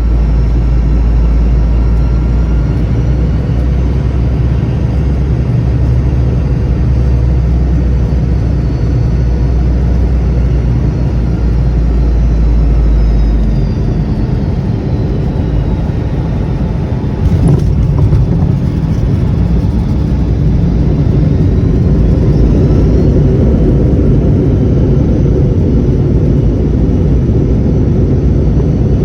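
Cabin noise of a Boeing 717 landing: a steady rumble of its rear-mounted Rolls-Royce BR715 jet engines and the airflow, with faint whining engine tones. About 17 seconds in there is a sharp thump as the wheels touch down, and a heavier rumble of the landing roll follows.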